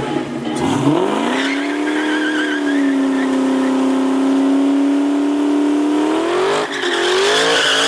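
Ford Mustang Cobra V8 revved up and held at a steady high rpm on the line, then dropping briefly about six and a half seconds in and climbing again as the car launches. A high squeal of spinning tyres comes in near the end.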